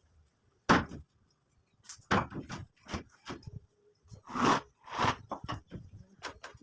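A run of irregular knocks and clatters, some single and some in quick clusters, like hard objects being handled or struck during repair work.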